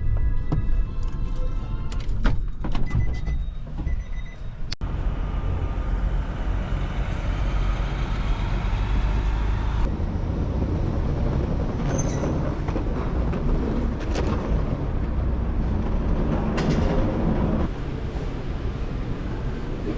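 Music with steady held tones for the first few seconds, cut off abruptly, then a steady loud rumble and rush of vehicle interior noise.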